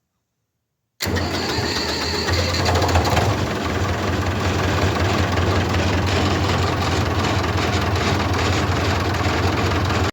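David Brown 1490 tractor's four-cylinder diesel engine running with a loud, steady, low rumble, cutting in suddenly about a second in.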